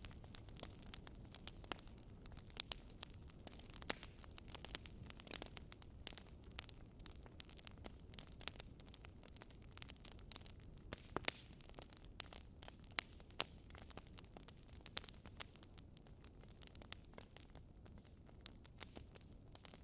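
Wood fire burning in a fireplace, with frequent sharp crackles and pops at irregular intervals over a low, steady rumble.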